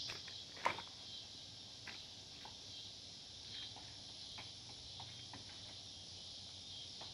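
Footsteps climbing outdoor stairs, a scattering of faint taps with one sharp click about a second in, over a steady high buzz of insects.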